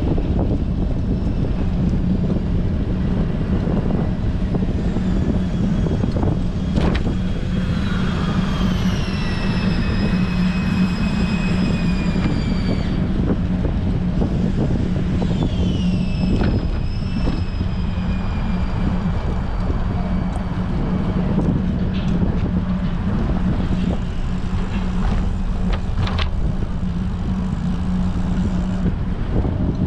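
Strong wind buffeting a helmet or handlebar action-camera microphone on a moving bicycle, with a steady low hum underneath. Twice, a high whine slides down in pitch as something motorised passes by.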